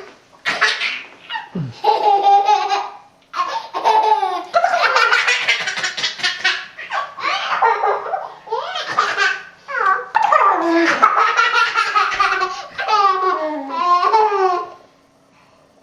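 A young child laughing hard in long, high-pitched fits with falling squeals, which stop shortly before the end.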